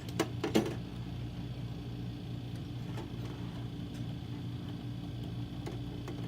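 Steady low electrical hum in the background, with two light clicks just after the start and a few faint ticks later, as the wire terminals on a Blizzard machine's speed control are handled.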